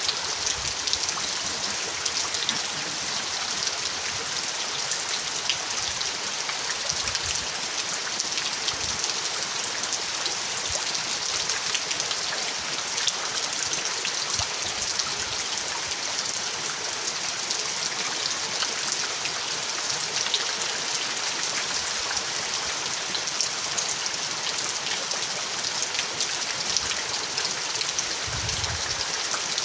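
Steady rainfall, a dense hiss of drops with fine pattering and now and then a soft low thud.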